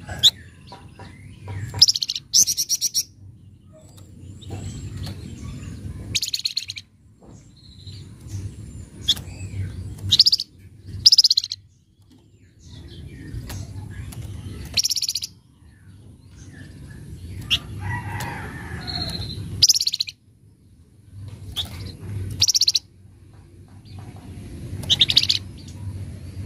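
Flamboyan (wergan jawa, Javan fulvetta) giving harsh, rattling chatter calls in short bursts, repeated every second or two, over a low rumble in the background.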